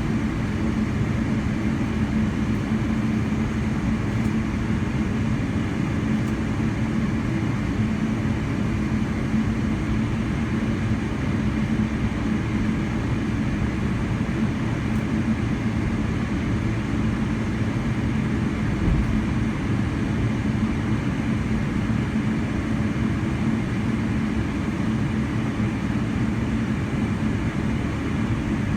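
Steady cabin noise inside a Boeing 777-300ER, its GE90 engines running with a low even hum. A single low thump comes about nineteen seconds in.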